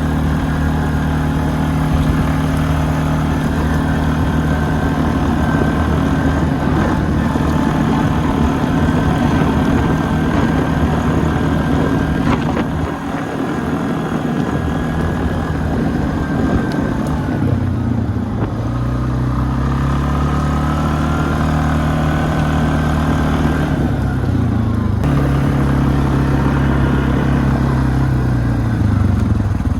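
ATV engine running under way, a steady drone with rough noise above it; its pitch dips and climbs back twice in the second half as the throttle changes.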